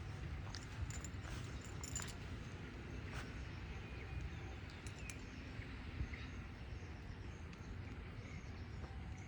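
Outdoor ambience: a steady low rumble, like wind on the microphone, with scattered small clicks and a few faint short chirps.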